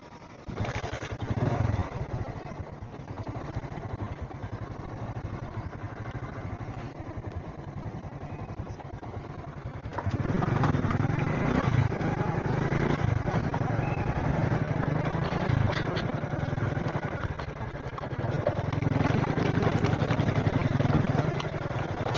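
Small 70cc motorcycle engine running while riding, with road and wind noise. It comes in suddenly about half a second in and gets louder about ten seconds in.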